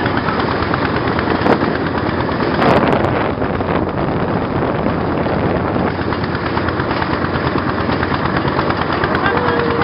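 Motorboat engine running steadily, with a rapid, even chugging.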